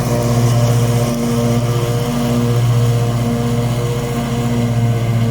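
John Deere S160 lawn tractor's 24 hp engine running steadily.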